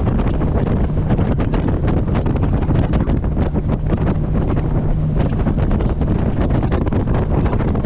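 Heavy wind buffeting the camera microphone on a moving boat, over the steady hum of the boat's engine and the rush of water along the hull.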